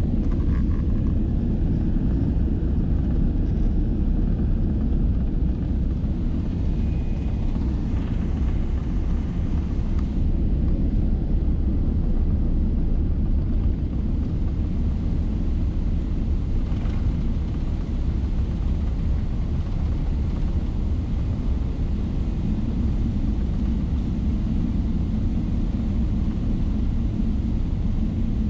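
Steady low rumble inside the cabin of a Boeing 777-300ER, from its GE90 engines and the airflow around the fuselage, at an even level.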